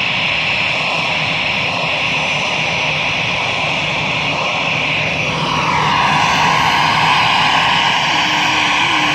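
Jet airliner's engines running, a steady jet noise after takeoff; about five and a half seconds in a high whine glides down in pitch and the sound grows a little louder.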